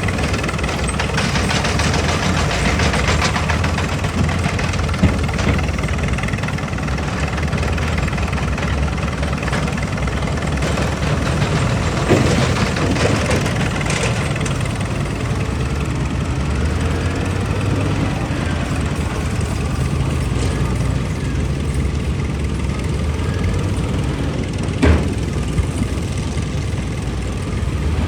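Excavator's diesel engine running steadily, with a few sharp knocks breaking through: one about five seconds in, one near the middle and the loudest near the end.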